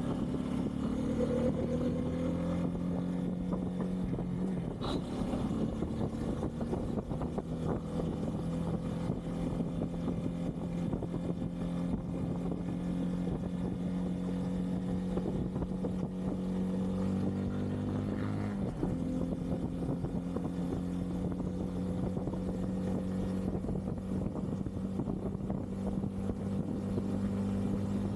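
Bajaj Pulsar N250's single-cylinder engine running at steady cruising revs on the move, with wind noise over the microphone. The engine note rises in the first couple of seconds and dips briefly about eighteen seconds in before settling again.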